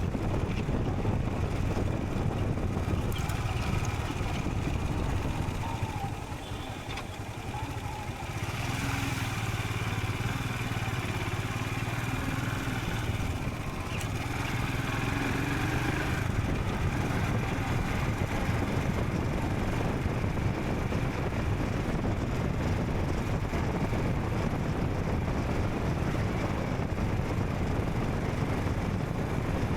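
Royal Enfield Scram 440's single-cylinder engine running while the motorcycle is ridden along the road, under a steady rush of wind and road noise. The sound eases off briefly about six seconds in, then picks back up.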